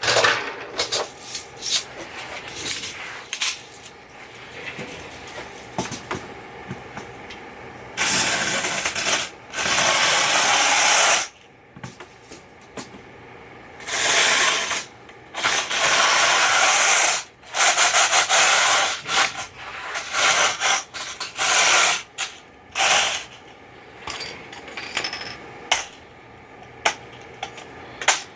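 Repeated mechanical rasping, each burst lasting one to three seconds, mixed with clicks and knocks from handling hard parts.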